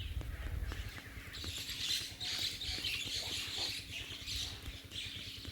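Faint, rapid high-pitched chirping, starting about a second in, over a low steady rumble.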